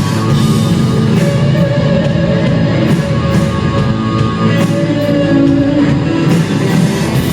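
A live rock band playing loudly, with electric guitar, bass and a drum kit keeping a steady beat.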